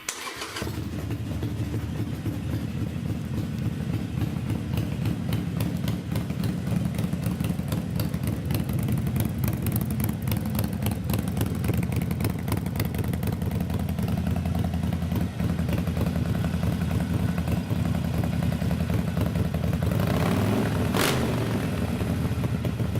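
Harley-Davidson Sportster 883's fuel-injected V-twin starting up and idling steadily through Vance & Hines stubby exhaust pipes, with a sharp click about 21 seconds in.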